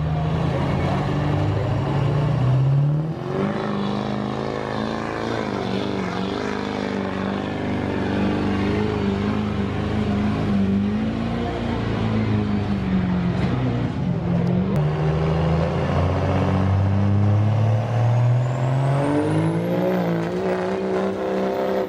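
Diesel pickup truck engine running hard under load while pulling a sled. Its pitch climbs, drops about three seconds in, wavers at high revs, then climbs again near the end.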